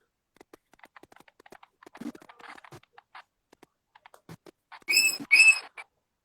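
Scattered light clicks and taps, then two short, loud, high-pitched squeaks in quick succession about five seconds in.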